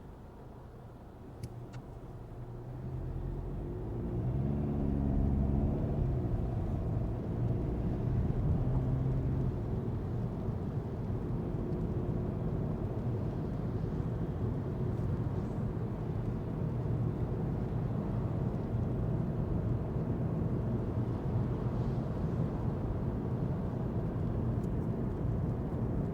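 2025 Volkswagen Golf's 150 hp TDI diesel engine heard from inside the car, pulling away: after a quieter start the engine note climbs for a few seconds from about three seconds in, then settles into a steady rumble of engine and road noise as the car cruises.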